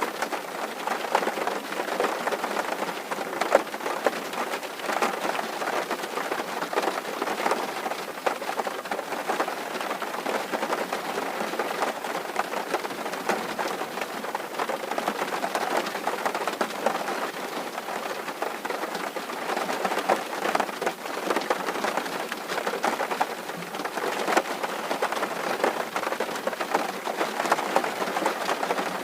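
Steady rain on a tin roof: a dense, even patter of drops on sheet metal.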